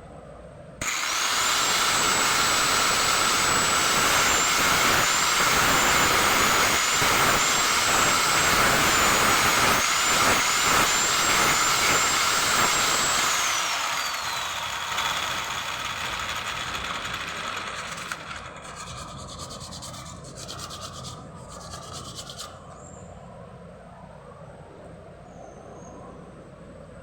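A small high-speed electric power tool switches on abruptly and runs with a high whine and a rasping noise from cutting or sanding. After about twelve seconds it is switched off and winds down, its whine falling in pitch as it fades. Faint rapid clicking follows near the end.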